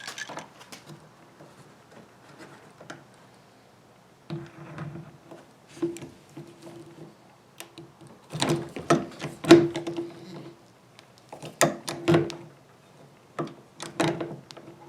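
Hand rivet tool being squeezed to set pop rivets, giving groups of sharp clicks and snaps, the loudest bunched in the second half.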